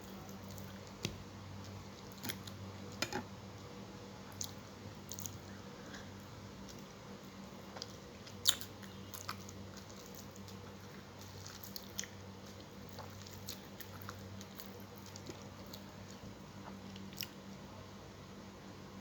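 Close-up mouth sounds of chewing and biting fried tilapia, with scattered wet smacks and sharp clicks, one louder than the rest about halfway through, over a steady low hum.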